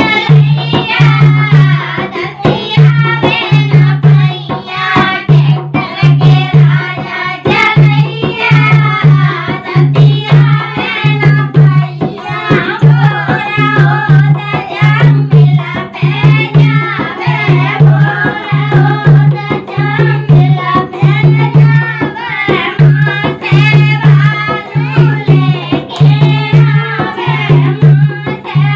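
Dehati folk song: a voice singing a wavering melody over a steady, evenly repeating hand-drum beat.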